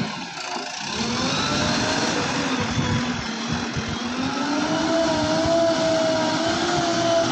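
JCB backhoe loader's diesel engine revving. Its pitch climbs from about a second in, rises again around four seconds in, then holds high.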